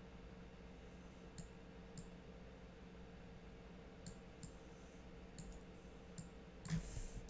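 Quiet, irregular clicks of a computer mouse, about half a dozen, over a faint steady hum of room tone.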